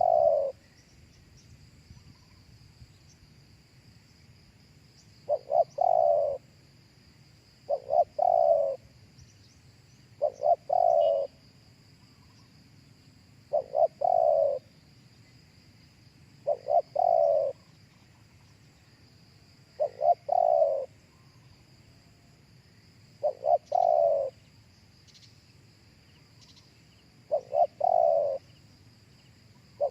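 Spotted dove cooing: a phrase of two or three short notes and a longer coo, repeated about every three seconds, with a faint steady high-pitched hum behind it.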